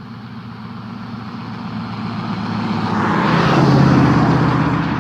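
A motor vehicle driving past, its engine and tyre noise growing louder, peaking nearly four seconds in, then starting to fade.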